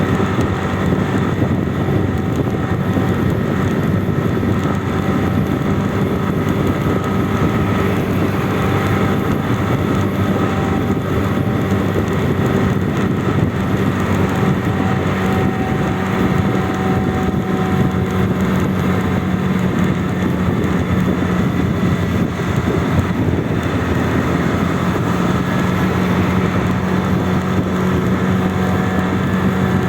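Motor vehicle engine running steadily under road and wind noise, with a constant low hum and its overtones.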